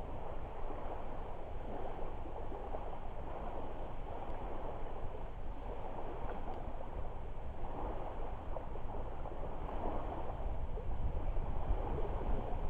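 Small lake waves lapping at the shore, a steady rushing wash that swells and eases every few seconds over a low wind rumble, with a faint crackle or two from the driftwood fire.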